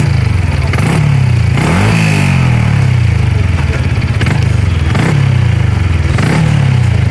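Honda Super Cub's small single-cylinder engine running, its note rising and falling several times as it revs up and eases off.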